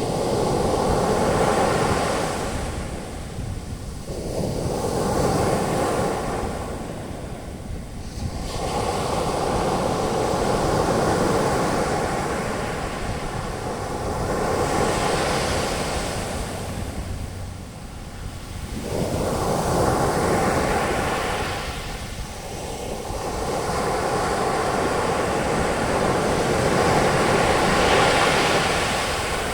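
Ocean waves breaking and washing up a beach as foaming surf, a rushing noise that swells and falls back about every five seconds.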